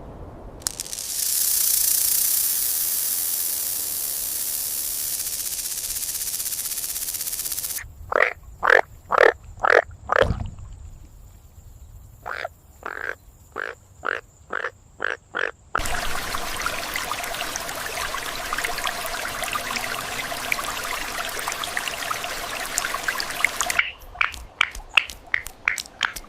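Frog croaking: a run of short, evenly spaced croaks a couple of times a second, after several seconds of steady hiss, then a dense crackling hiss, with quicker croaks again near the end.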